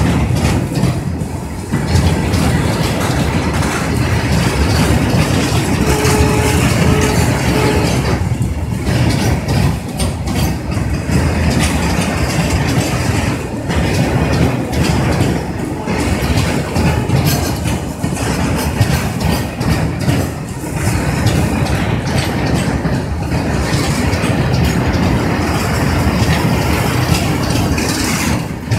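BTPN petroleum tank wagons rolling past close by: steel wheels rumbling and clattering steadily over the rails.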